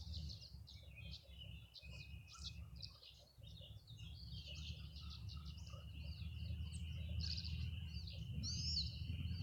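Tree swallows twittering, a rapid run of short liquid chirps and trills, with a steady high thin note running under them from about halfway through. A low steady rumble sits beneath.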